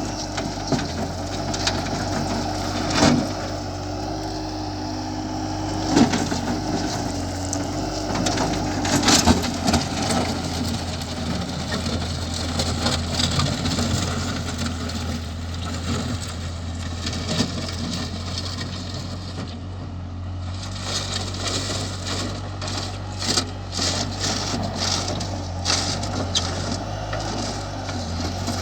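Bobcat skid-steer loader's engine running steadily while it pushes and levels stone, with crunching and sharp knocks of rock under the bucket throughout.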